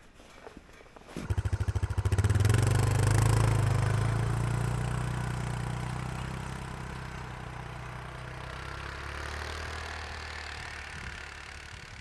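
A motorcycle engine starts about a second in with a quick run of firing pulses, settles into a steady running note, then grows gradually fainter.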